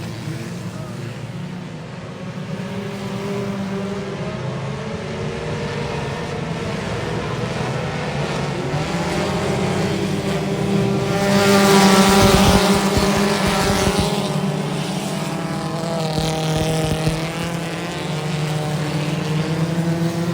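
Race car engines running on the track, their pitch rising and falling as they accelerate and back off. The loudest pass comes about twelve seconds in, with a rushing noise and low rumble.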